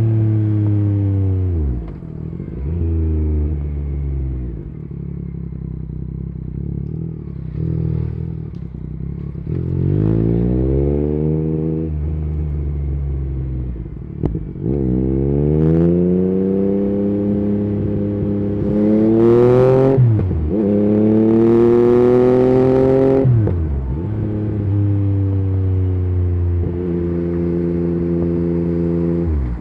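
Yamaha MT-09 inline-three engine breathing through an Akrapovic carbon exhaust with the dB killer removed, pulling hard under acceleration. The pitch climbs and drops sharply at each gear change, several times over, and it settles into a steadier cruise near the end.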